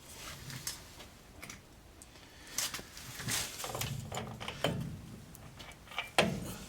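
Irregular clicks, knocks and clatter from metal parts and tools being handled, with a few duller thuds in the middle and a sharp knock near the end.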